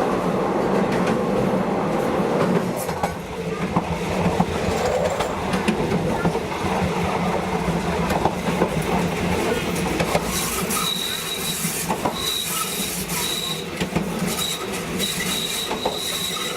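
Train running along the track with a steady rumble and scattered rail clicks; about two-thirds in, a thin high wheel squeal starts, coming and going in short stretches.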